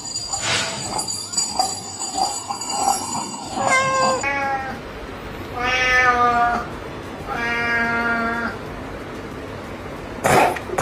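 Cat meowing: three long, drawn-out meows about four, six and eight seconds in, each lower than the last, with a short burst of noise near the end.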